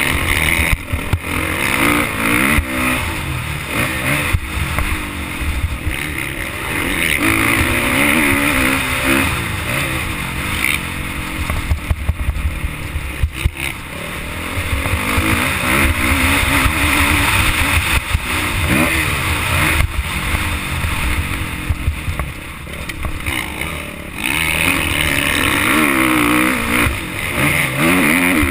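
Motocross bike engine heard from onboard, revs rising and dropping over and over as the rider accelerates and shifts.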